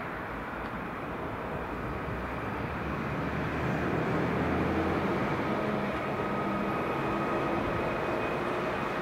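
A train running past on the track: steady rail noise that swells to its loudest about four seconds in, with faint high tones in the second half.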